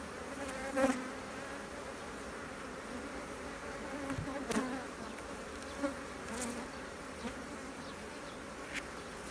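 Honeybees buzzing steadily over an open hive while its frames are being inspected, with a few light knocks now and then.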